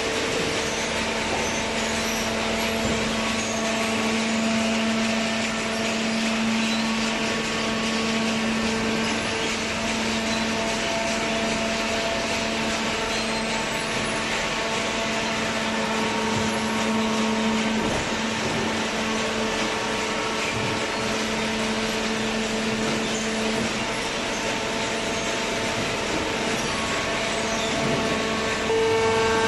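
Hydraulic cardboard baler running, its electric motor and hydraulic pump giving a steady whining hum that grows louder near the end.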